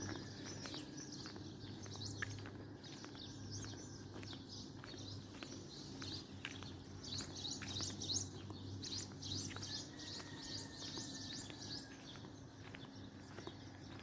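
Small birds chirping in many quick high notes, busiest about halfway through, over a low steady hum.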